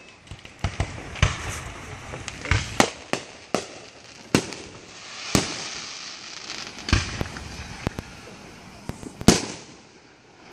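Fireworks going off: about fifteen sharp bangs and pops at irregular spacing, with crackling hiss in between. The loudest bang comes about nine seconds in.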